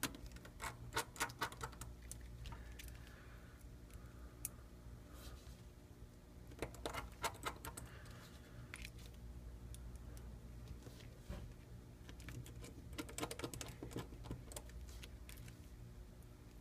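Faint small metallic clicks and ticks of tiny phone screws and a precision screwdriver during reassembly, coming in three short clusters a few seconds apart.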